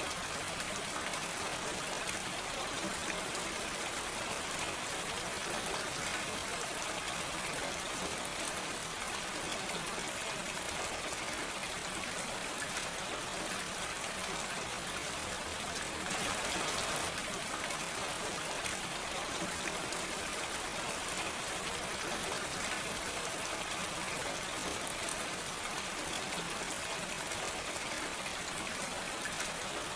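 Steady gentle rain with no thunder, an even hiss of falling drops, with a brief louder swell about halfway through.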